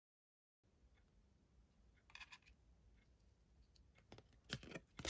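Faint clicks and light scrapes of tarot cards being handled on a table: a short cluster about two seconds in, then a louder run of clicks near the end.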